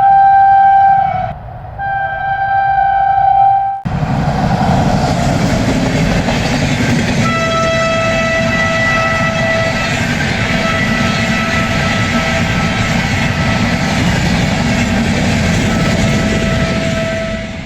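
Train horn sounded in two blasts, then a sudden change to the loud rumble and hiss of a train running past close by. Over the rumble a horn sounds long and steady, with a couple of brief breaks.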